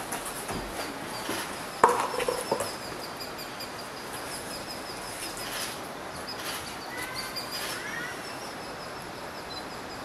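Outdoor bird calls: one short loud call about two seconds in, then a few brief rising whistled calls near the eight-second mark, over a thin high trill that runs on steadily.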